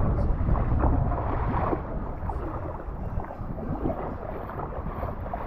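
Wind buffeting the microphone over water sounds from a kayak on the sea, the wind heaviest for the first couple of seconds and then easing.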